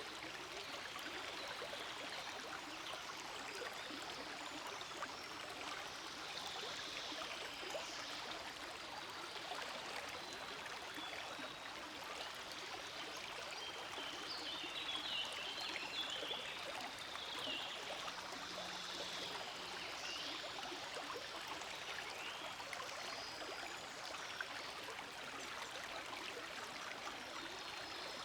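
Forest stream flowing over rocks, a steady rush of water with some trickling.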